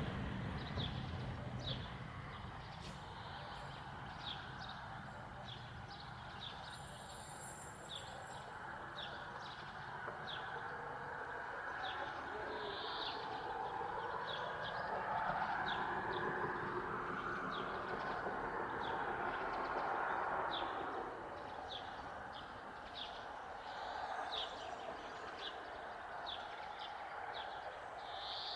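A small bird calling over and over in short high chirps, about one and a half a second, through the whole stretch. Under it a broad rushing noise swells in the middle and fades again, like a vehicle passing.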